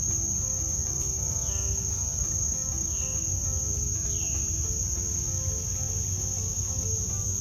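A steady, high-pitched drone of insects, crickets or cicadas, runs without a break. Soft background music with a simple melody plays under it, and faint short falling chirps come about once a second.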